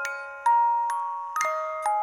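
Slow lullaby melody on a bell-like tuned mallet instrument, glockenspiel-style, with a new note struck about every half second and each note ringing on under the next.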